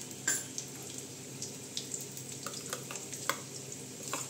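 Hot oil sizzling in a kadai with scattered pops and crackles as boiled eggs and potato pieces fry. Near the end a spoon starts stirring a thick masala paste in a steel bowl.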